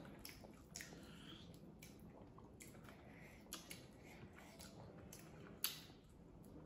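Faint close-up eating sounds: chewing and wet mouth clicks and smacks, with one sharper click near the end.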